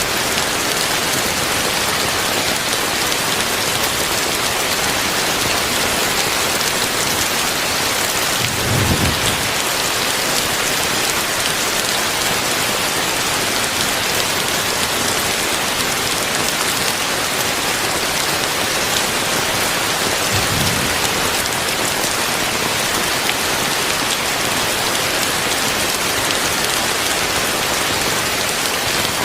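Heavy rain falling steadily in a dense, even hiss, with two brief low rumbles about nine and twenty seconds in.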